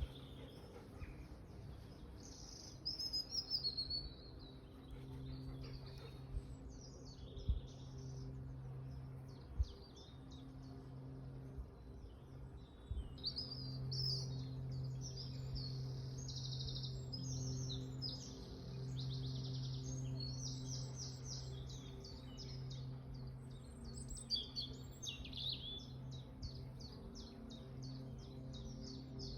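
Wild songbirds singing with many short chirps and fast trills, busiest in the second half. A steady low hum runs underneath, with a couple of sharp knocks about a third of the way in.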